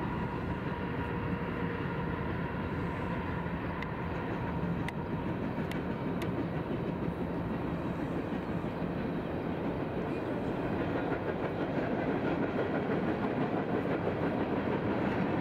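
Freight train rumbling by at a distance, its cars rolling steadily along the rails with a few faint clicks. It grows a little louder in the second half.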